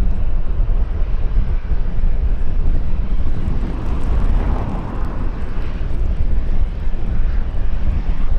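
Jet airliner engines, strongest about halfway through, over a heavy rumble of wind buffeting the microphone.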